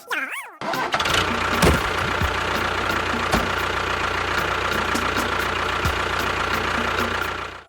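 An engine running steadily at an even speed, with a light regular ticking, which stops abruptly just before the end.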